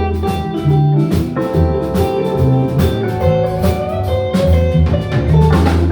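Live blues band playing an instrumental passage between sung lines: guitar over drums and a strong low bass line.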